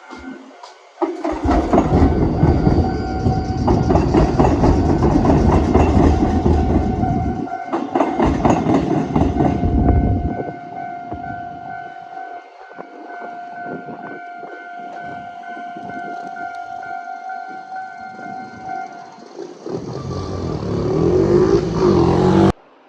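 Rail vehicle's steel wheels rumbling and clattering over an at-grade diamond crossing, loudest for the first ten seconds, then fading. It swells again near the end before cutting off abruptly. A steady high tone sounds through most of it.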